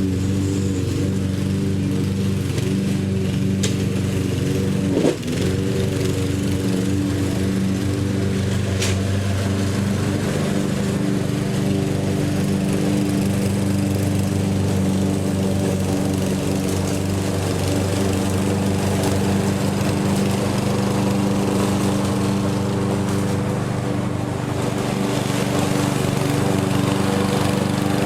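Lawn mower engine running steadily, with a short knock about five seconds in.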